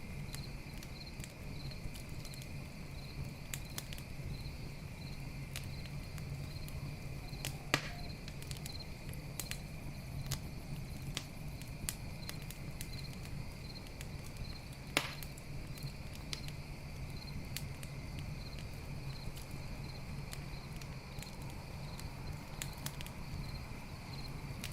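Campfire crackling with scattered sharp pops, two louder ones about eight and fifteen seconds in, while crickets chirp steadily in a regular rhythm.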